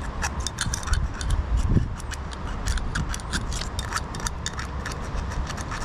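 Small metal parts of a lawn tractor carburetor being handled, with irregular light clicks and taps, several a second.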